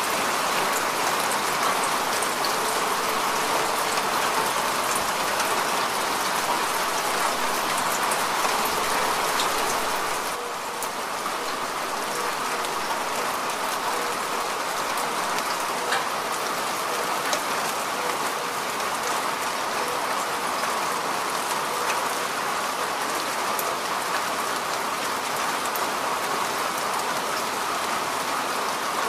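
Steady rain, a dense even hiss with scattered individual drops ticking through it; it eases slightly about ten seconds in.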